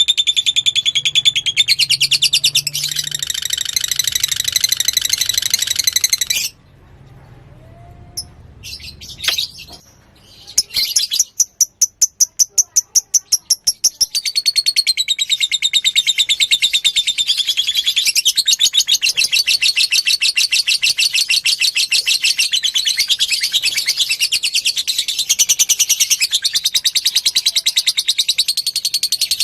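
Lovebird singing long runs of fast, high chattering trills. The song breaks off about six seconds in, comes back after a few seconds as a rapid, evenly spaced string of notes, then runs on unbroken.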